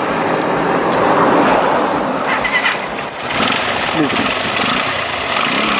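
An engine running amid outdoor noise, with people's voices in the background.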